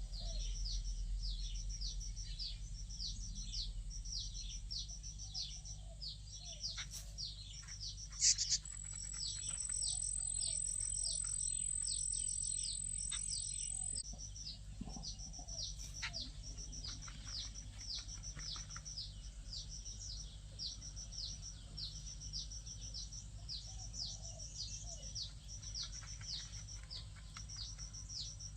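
Bird calling: a steady series of short, high chirps, each falling in pitch, repeated about two to three times a second. A thin, high steady whine joins from about eight to fourteen seconds in, just after a sharp click.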